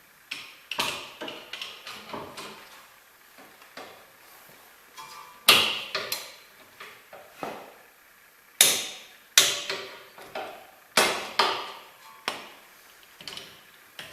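Hammer striking steel: a series of irregular blows, each with a short ringing decay. The hardest come about five and a half seconds in and again around nine and eleven seconds.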